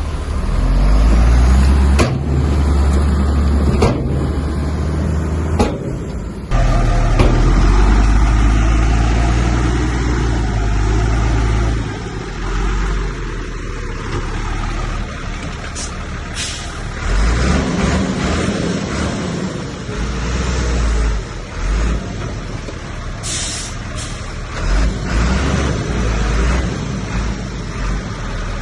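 Heavy diesel earthmoving machinery at work: engines running and changing load, with sharp knocks in the first several seconds and a couple of brief hisses later on.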